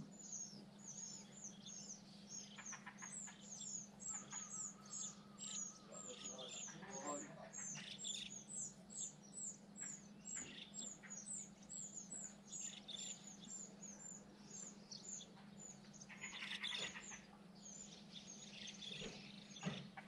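Small birds chirping: a continuous run of short, high, downward-sliding chirps, about three a second, with other scattered calls over it. A steady low hum runs underneath.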